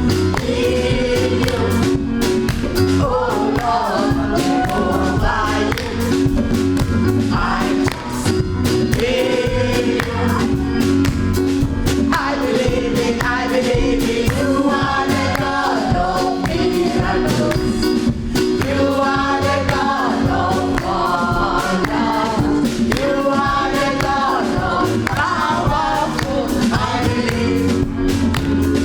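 Gospel choir singing with a live band, over a steady drum beat.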